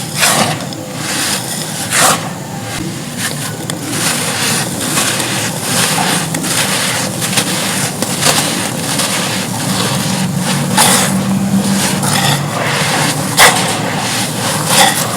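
Dry red dirt clay being crumbled and crushed: a continuous gritty crunching with sharp cracks every second or so, the loudest snaps about two seconds in and near the end.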